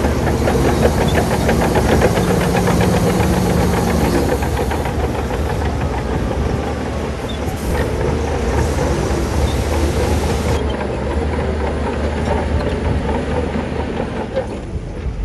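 Shantui bulldozer working: its diesel engine runs steadily under load, with a fast, regular clatter from the steel tracks over the first few seconds.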